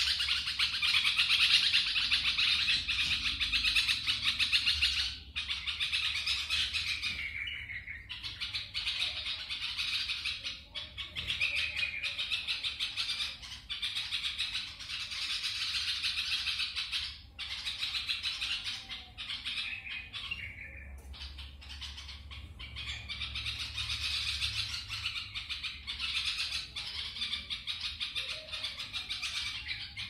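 Young birds chirping rapidly and continuously, a dense high-pitched twittering that runs in long stretches with a few brief breaks.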